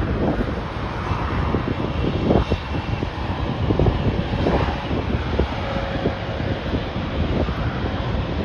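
Airliner engine noise at the airport, with a faint steady whine partway through. Heavy wind buffeting on the microphone overlays it.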